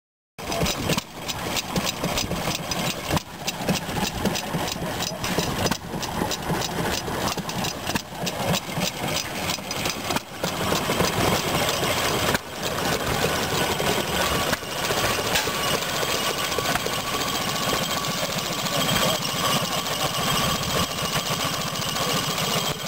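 Vintage stationary gas engines running with a fast, regular knocking beat. The sound changes abruptly several times from one engine to the next.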